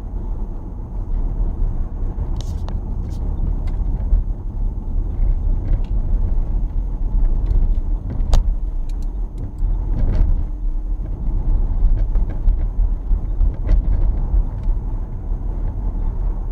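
Steady low rumble of a car on the road, recorded from a dashcam inside the vehicle, with scattered light clicks and knocks.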